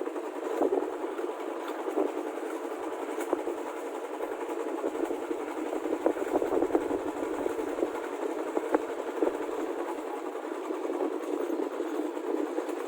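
Steady rumble of a motorcycle on the move: engine and road noise with small scattered clicks and rattles.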